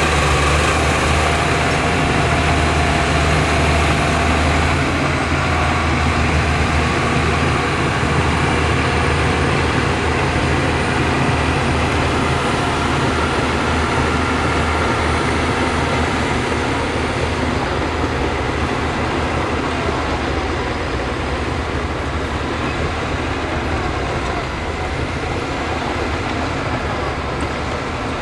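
Heavy diesel construction machinery running and working, with a strong steady low drone that grows a little weaker and quieter over the second half.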